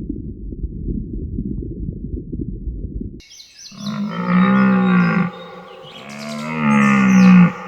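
A low, muffled rumbling noise, then, after a sudden change about three seconds in, a cow mooing twice: two long calls that rise and fall in pitch, the second louder.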